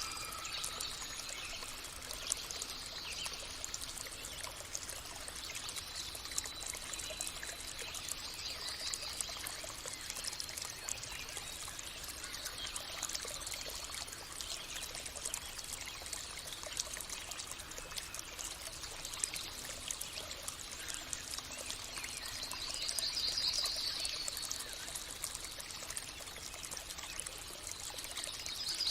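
Running water trickling and splashing steadily, with birds chirping over it; a louder trilling bird call comes in about two-thirds of the way through and again right at the end.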